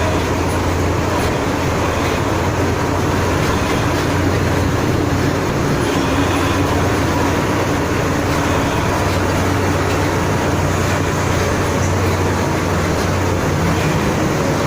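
Steady, loud road noise at highway speed: wind rush and a low engine drone from closely following a bus, with no breaks or sudden sounds.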